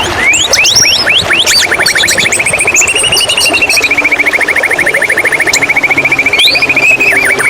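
White-rumped shama (murai batu) singing: a run of quick rising whistles, then a long fast trill that wavers gently up and down in pitch, with short high chirps mixed in. An even rushing of running water lies underneath.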